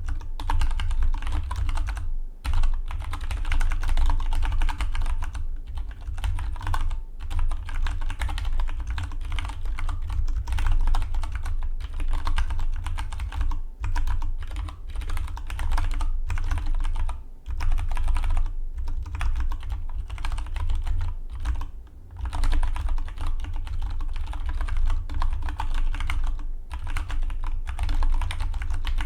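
Fast typing on a Dygma Defy split mechanical keyboard: a dense, continuous stream of key clicks, broken by a few brief pauses.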